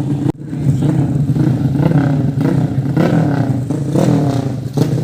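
150 cc racing motorcycle engines running and revving, rising and falling in pitch several times. The sound cuts out briefly about a third of a second in.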